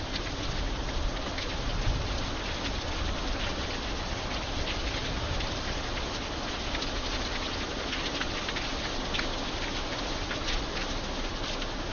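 Steady rain falling, with many sharp individual drop hits standing out from the even hiss.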